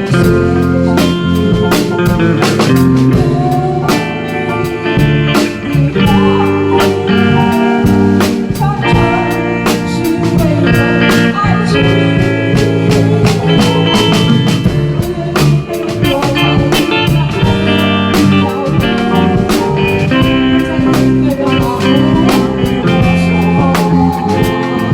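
Live band music: lead guitar over a drum kit, bass and keyboard, with a steady beat.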